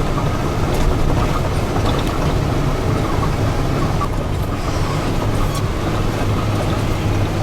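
Steady engine and road noise of a moving vehicle heard from inside the cabin, a low rumble throughout.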